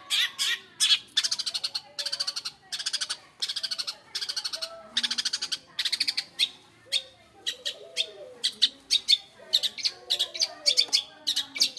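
Long-tailed shrike (cendet) singing: repeated short bursts of fast, harsh chattering notes, giving way about halfway through to a looser run of separate sharp calls. Fainter, lower warbling calls sound underneath.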